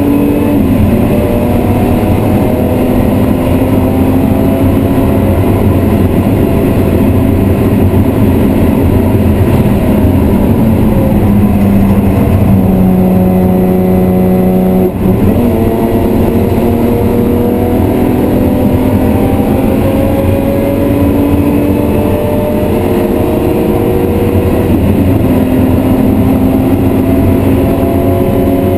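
BMW E36 M3's 3.0-litre straight-six heard from inside the cabin under hard acceleration, revs climbing and dropping back at each upshift. The pitch holds steady for a few seconds just before the halfway point, then a short dip at a gear change before it climbs again.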